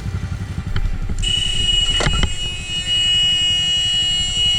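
Motorcycle engine idling with a low pulsing beat. About a second in, a horn starts and is held down steadily until the end. A brief sharp sound cuts through around two seconds in, as the car reverses into the bike.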